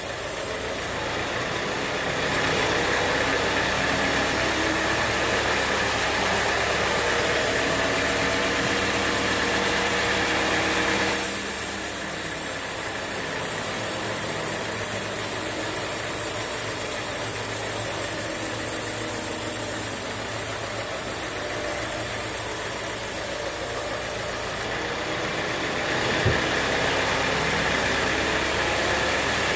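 Sawmill machinery running steadily with an engine-like hum. A high hiss comes in about a second in, shifts partway through and drops away near the end, and there is one sharp knock shortly before the end.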